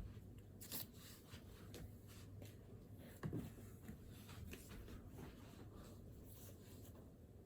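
Faint scratching and light tapping of a pen writing on paper, with one soft knock about three seconds in.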